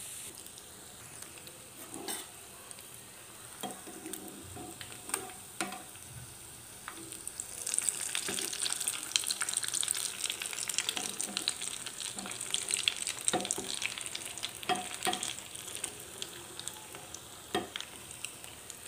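Cornflake-coated fish balls deep-frying in hot oil, a steady bubbling sizzle broken by a few sharp clicks. The sizzle grows louder from about eight seconds in, when a spoon turns the balls in the oil.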